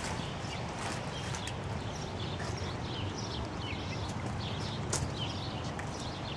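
Small birds chirping over and over against a steady background hiss, with a few faint clicks.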